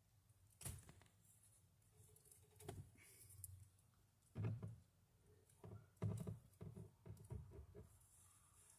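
Near silence, broken by a few faint, scattered knocks and clicks.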